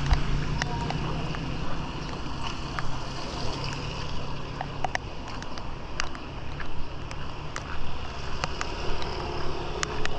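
Steady rain with many scattered sharp ticks of drops landing close by, over a low engine hum that fades about halfway through.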